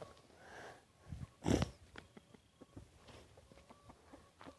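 Chickens and a rooster eating scattered bread, with faint pecking ticks and one short, loud animal call about a second and a half in.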